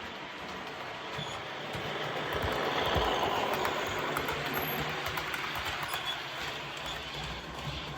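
Recorded English Electric Class 37 diesel engine sound played by a model locomotive's DCC sound decoder through its small onboard speaker, running under power. It swells louder about two to three seconds in, then eases off slightly.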